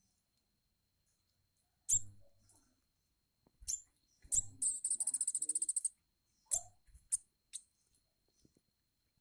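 A tame sunbird calling: several sharp, very high chips, then a rapid high trill lasting about a second and a half past the middle, followed by a few more chips.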